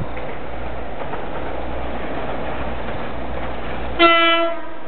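Passenger train running steadily under power as it picks up speed. About four seconds in, a short, loud single-pitched horn blast cuts over the running noise.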